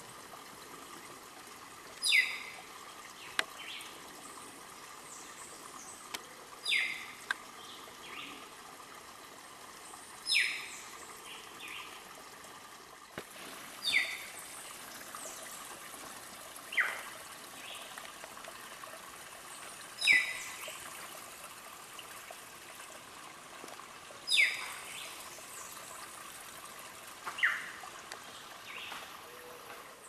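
A bird calling again and again, a short sharp call that falls in pitch, repeating about every three to four seconds, over a steady forest background with a faint high hum.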